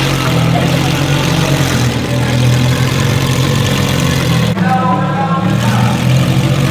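Car engine idling with a steady low drone, the tone shifting abruptly about four and a half seconds in.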